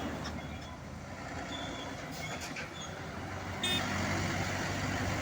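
Heavy truck engine running with a steady low rumble. A short, sharp sound with a brief high tone comes about three and a half seconds in.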